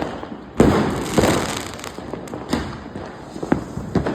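Firecrackers going off in an irregular run of sharp bangs, the loudest about half a second in, with crackling and hiss between the bangs.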